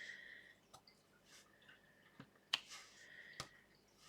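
A few faint, sharp clicks of a drill pen pressing round resin diamond-painting drills onto the sticky canvas.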